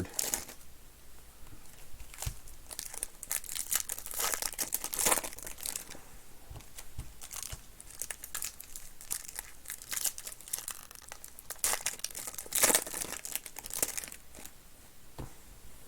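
Plastic and foil wrapping on trading card packs crinkling and tearing as packs are opened by hand, in irregular crackling bursts.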